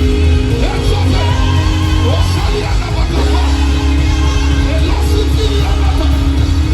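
Live worship band music with heavy bass and long held keyboard chords, with voices singing and calling out over it.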